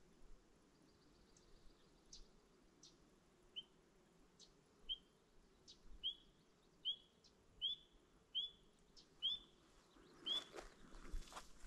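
A woodland bird calling a series of short, sharp notes, about one every 0.8 seconds, that grow louder. Thinner, higher notes are heard in between. Footsteps on the trail start near the end.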